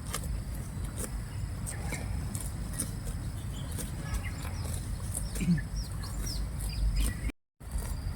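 Short high bird or fowl chirps and clucks, bunched about two-thirds of the way in, over a steady low outdoor rumble with scattered light clicks; the sound cuts out completely for a moment near the end.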